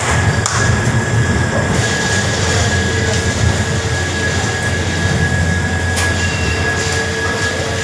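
Express train rolling slowly along a station platform, heard from a coach's open door: a steady rumble of wheels on rail with a thin steady whine above it, and two sharp clicks, one about half a second in and one near the end.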